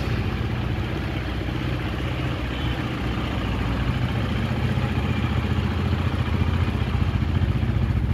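KTM Duke 390's single-cylinder engine idling steadily.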